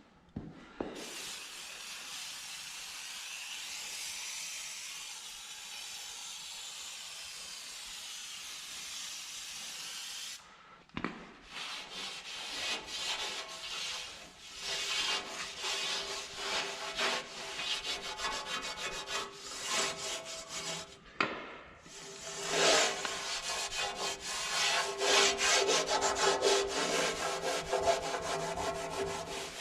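A steady spray hiss for about ten seconds as degreaser goes onto the truck's aluminum panels. It stops, and rapid back-and-forth scrubbing strokes on the metal follow, growing louder and more vigorous toward the end, as contaminants are scrubbed off ahead of polishing.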